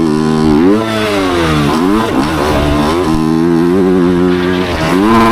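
Dirt bike engine revving up and down, its pitch climbing steeply under throttle about a second in, dropping and climbing again around two seconds, holding, then rising once more near the end.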